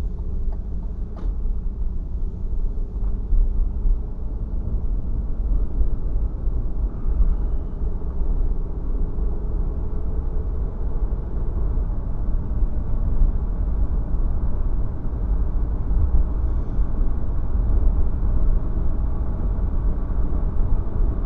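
A car being driven, its engine and tyre rumble heard from inside the cabin, with the engine note rising gently partway through as it picks up speed.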